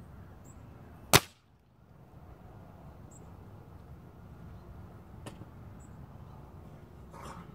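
A single sharp shot from an Umarex Gauntlet .22 PCP air rifle about a second in, followed by a few faint clicks later on, with wind rumbling on the microphone throughout.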